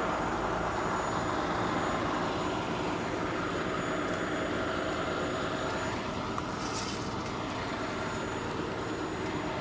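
Steady heavy-vehicle engine drone, with a brief hiss about seven seconds in.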